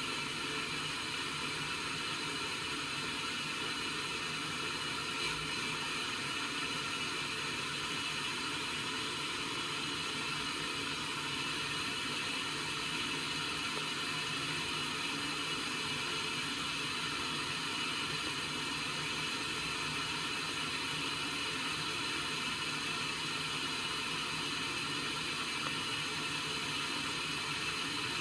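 Indesit washing machine taking in water for the first rinse of a cotton full load: a steady hiss of water running into the drum.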